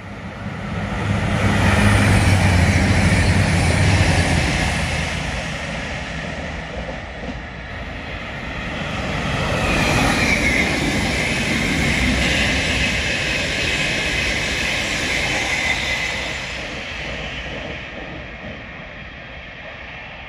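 Trains running through a station: one passes loudly in the first few seconds, then a second rise about halfway brings a high whine that fades toward the end.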